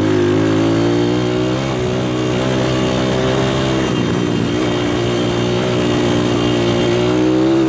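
PitPro 140cc pit bike's single-cylinder four-stroke engine running at a steady, easy throttle while being ridden. The pitch dips slightly a couple of times.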